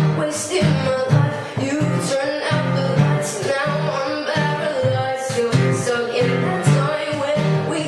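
A girl singing a pop song over guitar accompaniment, her voice carried over a steady, evenly repeating guitar pattern.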